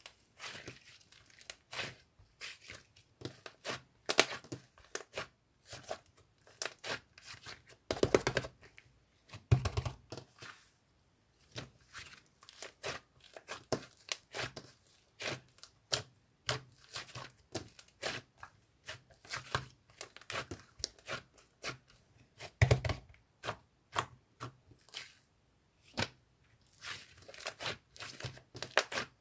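Fluffy slime being squished, poked and stretched by hand, giving a stream of irregular sticky clicks and small pops, with a few louder squelches.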